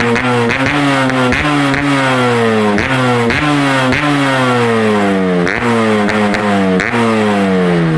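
Yamaha RX-King two-stroke single-cylinder engine revved through a homemade stainless racing exhaust. The throttle is blipped over and over, a bit more than once a second: each blip sends the pitch up with a sharp crack, and the note falls away before the next one.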